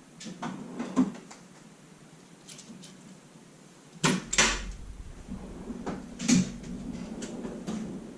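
Sharp knocks and clanks of metal parts being handled as a ball joint press is set on an upper control arm: one knock about a second in, two close together a little after four seconds, and another about two seconds later, with light handling noise between.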